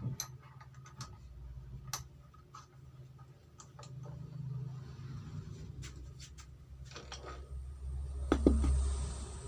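Light metal clicks and scrapes of a motorcycle cylinder block being handled and set into a cylinder boring machine, with a louder knock and a rising hiss about eight and a half seconds in.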